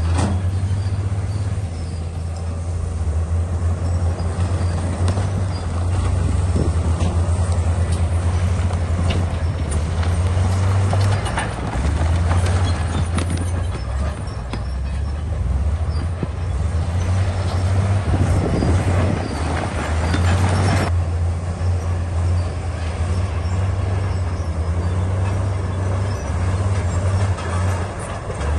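Bulldozer's diesel engine running under load, a deep steady drone with rattling and scraping from the tracks and blade over it. The higher clatter drops away suddenly about two-thirds of the way through while the engine drone carries on.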